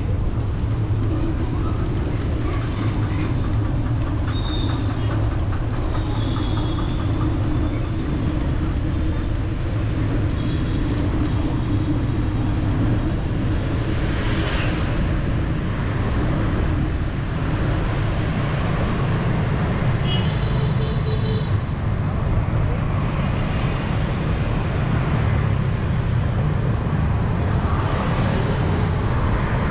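Busy city street traffic heard from a moving bicycle: a steady rumble of passing vehicles, with a few brief high-pitched tones now and then.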